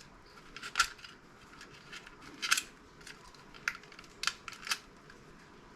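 Scattered sharp clicks and snips of hand tools working at the glued copper windings of a CRT monitor's inner deflection yoke, about five in all, the loudest about a second and two and a half seconds in.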